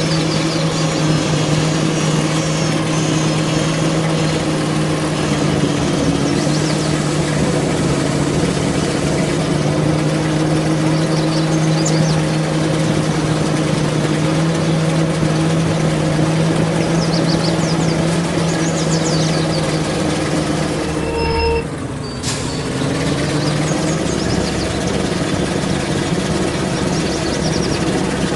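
Truck engine running steadily under way. About three-quarters of the way through the note drops briefly and then climbs back up.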